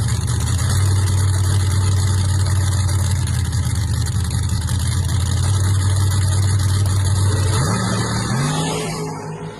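A loud car engine running at a steady idle. Near the end it revs up briefly and fades away.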